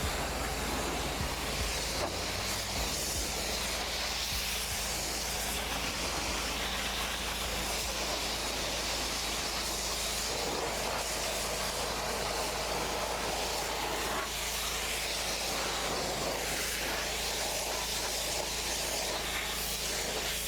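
Pressure washer spraying steadily, its high-pressure water jet rinsing foam off a tractor, with a constant hiss over a low steady hum.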